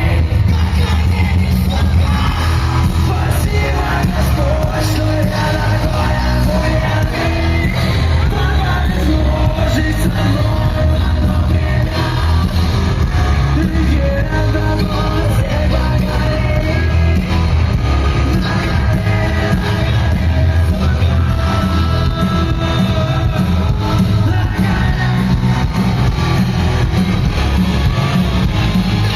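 Live band playing loud rock music with a singer, heavy bass in a large concert hall.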